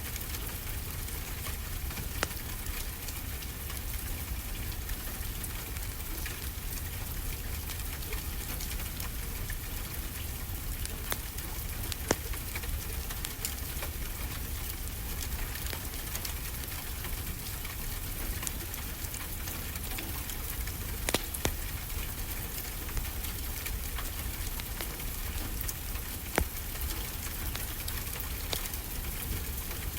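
Wood fire in a fireplace crackling, with scattered louder sharp pops, over a steady low rush of ocean waves.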